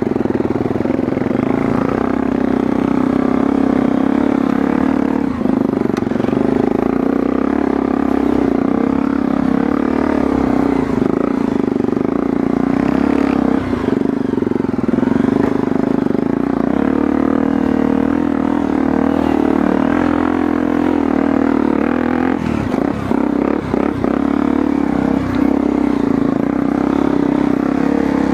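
Motorcycle engine running steadily under way on a dirt trail ride, its note dipping briefly a few times.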